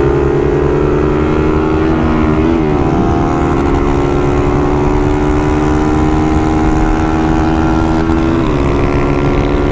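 Honda motorcycle engine at full throttle and high revs, its pitch climbing slowly as speed builds, with quick upshifts about two and a half seconds in and near the end. The engine's rev limit has been raised to 10,200 rpm.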